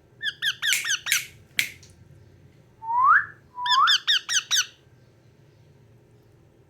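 Yellow Indian ringneck parakeet calling: a run of quick, high chirps, then a clear rising whistle about three seconds in, followed by another rising note and a second run of quick chirps.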